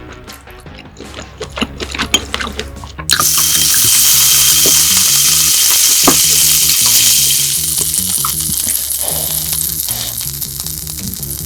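Slices of Korean Hanwoo beef hitting a hot grill and sizzling loudly, starting suddenly about three seconds in and slowly dying down. Before that come scattered small clicks and taps, with soft background music throughout.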